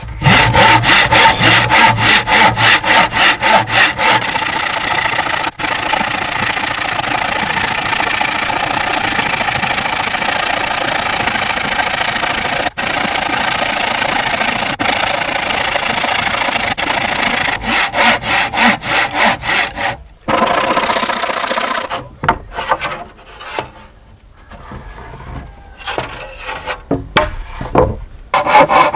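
Wood being cut with a hand saw, in quick rhythmic back-and-forth strokes that turn stop-start with short pauses near the end.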